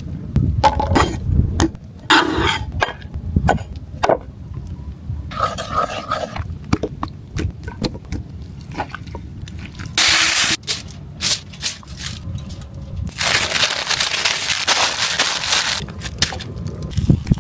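Food-preparation handling sounds: scattered knocks, clicks and scraping over a low rumble, with a short burst of hiss about ten seconds in and a longer hiss a few seconds later.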